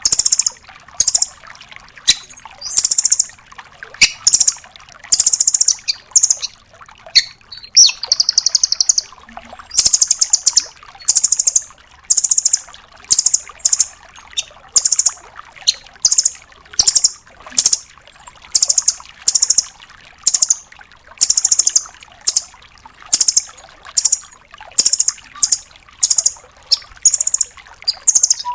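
Velvet-fronted nuthatch (rambatan doraemon) calling over and over in short, high, fast-rattling trills, about one or two bursts a second, with a few longer trills among them.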